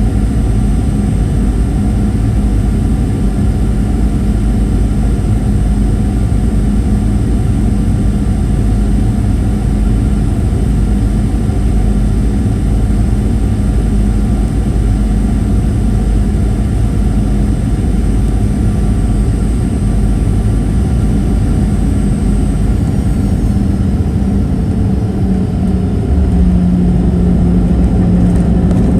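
Steady cabin noise of a Boeing 737-800 in flight: the drone of its CFM56-7B turbofan engines and the rush of air past the fuselage, with a few held whining tones. About three-quarters of the way through, the engine tones ease slightly lower in pitch.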